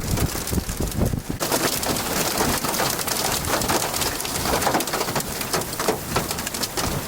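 Hail and rain pelting down in gusty wind: a dense, steady patter of sharp impacts.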